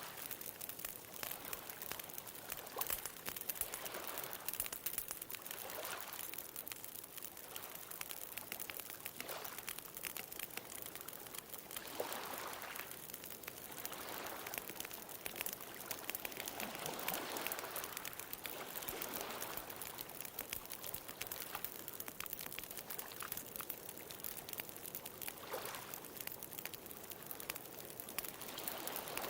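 Wood bonfire crackling with frequent small pops and snaps, over the wash of ocean waves that swell and fade every few seconds.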